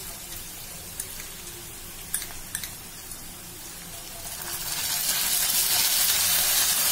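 Onion, capsicum and green chillies frying in hot oil in a kadhai, a faint sizzle with a few light clicks. About four seconds in, chilli sauce poured into the hot pan makes the sizzle swell into a loud, steady hiss.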